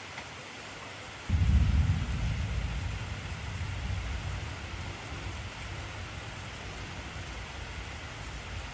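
Steady heavy rain, with a sudden low rumble of thunder starting just over a second in that is loudest at its onset and dies away over the next several seconds.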